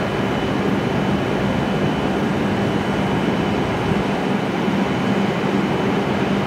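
A stationary W7 series Shinkansen train's onboard equipment running with a steady noise, a constant low hum and a faint high tone held throughout.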